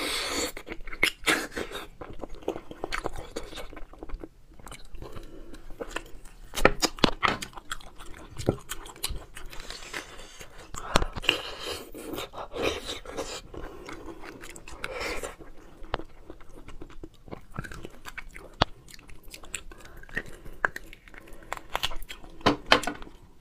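Close-miked chewing and biting of someone eating roasted bone marrow, with many irregular sharp mouth clicks.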